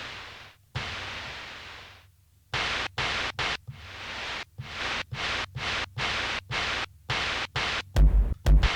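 Roland SP-404 MkII sampler playing a pitch-shifted white-noise percussion sample meant as a snare. First come long hiss hits that fade slowly, then a run of short, choppy noise hits about three a second, and near the end two deep kick-drum thumps. To its maker the noise hit reads more like a crash than a snare.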